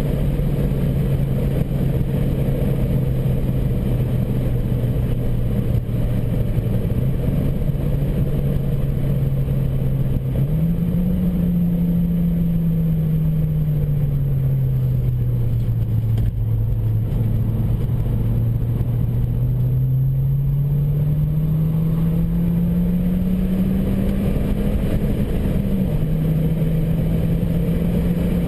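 Turbocharged Opel Coupe's engine under way, heard from inside the cabin over steady tyre and wind noise. Its note holds steady, jumps up sharply about ten seconds in and sinks over several seconds. It then climbs again and steps down abruptly near the end.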